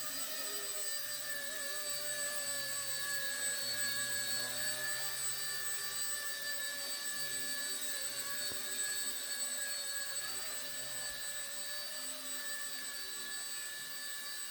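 Micro RC helicopter flying: a steady high-pitched whine from its brushless motors and spinning rotors, its pitch wavering a little.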